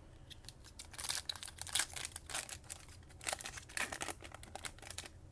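2020 Panini Mosaic trading cards and pack wrapper being handled: a quick run of rustling, crinkling and clicking sounds, busiest from about a second in until near the end.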